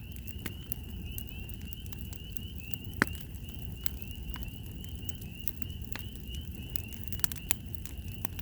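Wood campfire crackling with scattered sharp pops, the loudest about three seconds in, over a steady chorus of spring peepers giving rapid high peeps.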